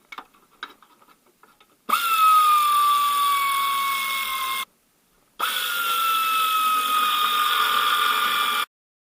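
Cordless drill-driver running twice, about three seconds each with a short pause between, driving in bolts. Each run is a steady whine that sags slightly in pitch as the bolt takes up load.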